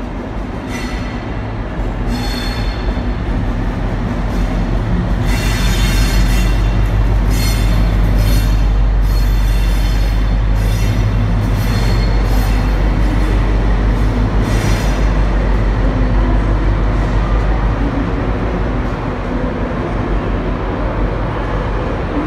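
Class 60 diesel locomotive 60044, with its eight-cylinder Mirrlees engine droning low and loud, hauling a train of tank wagons past. The drone builds to its loudest mid-way and eases after about 18 s as the wagons keep rolling. Their wheels squeal repeatedly on the rails through the first 15 s or so.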